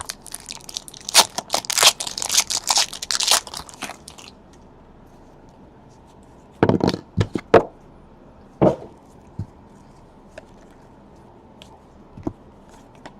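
Trading-card pack wrapper being torn open and crinkled for about four seconds, followed by a few short knocks and rustles as the cards are handled.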